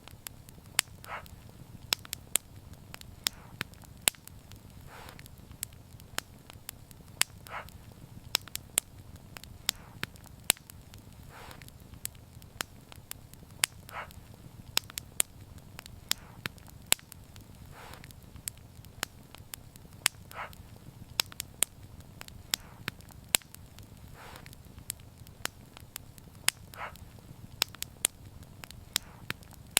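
Wood fire crackling: a steady low rumble of burning with frequent sharp, irregular pops and snaps, and a softer brief hiss every two or three seconds.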